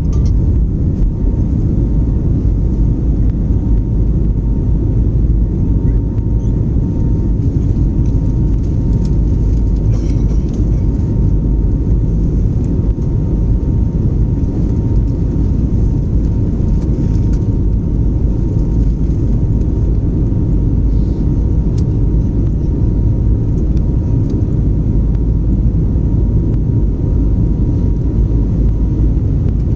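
Airliner's jet engines and rushing air during the climb after takeoff: a loud, steady low rumble that holds even throughout, with a faint steady whine above it.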